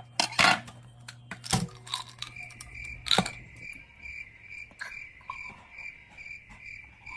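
Insect-like chirping: a high, evenly pulsed chirp repeating about three times a second, starting about two seconds in, over a few scattered light clicks.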